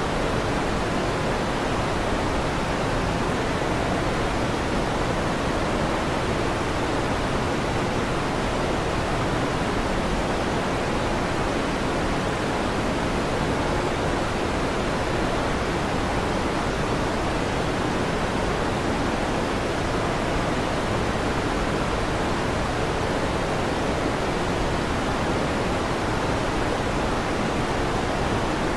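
Electric fan running: a steady, even whooshing hiss that holds at one level, with no thunder claps.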